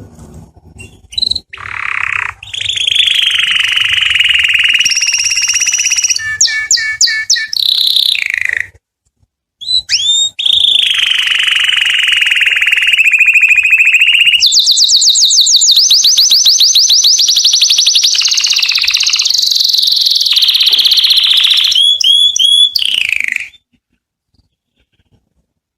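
Domestic canary singing in two long bouts split by a brief pause: sustained rolling trills and fast runs of repeated notes that glide up and down in pitch.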